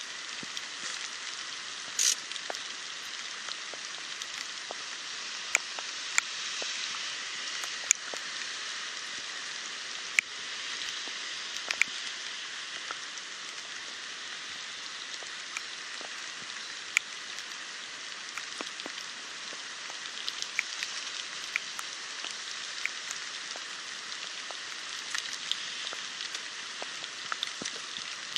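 Steady hiss of rain together with the rushing of a flooded, fast-flowing creek, with scattered sharp taps of drops; the loudest tap comes about two seconds in.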